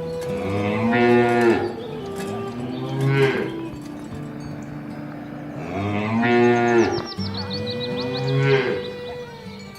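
Cattle mooing: four long, drawn-out moos in two pairs, each pair a longer call followed by a shorter one.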